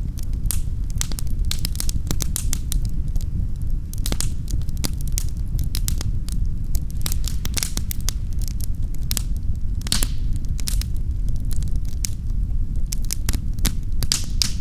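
Wood fire crackling in a fireplace: irregular sharp pops and snaps over a steady low rumble of the burning fire, with one louder pop about ten seconds in.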